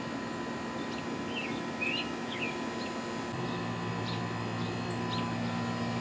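Small birds chirping a few times in the background over a steady low hum; a deeper steady drone comes in about three seconds in.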